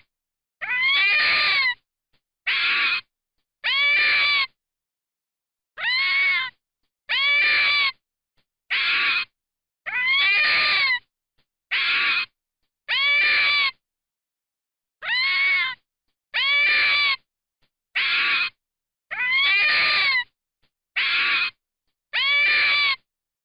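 A series of about fifteen short, high-pitched animal calls, each rising then falling in pitch, about one a second, with clean silence between them.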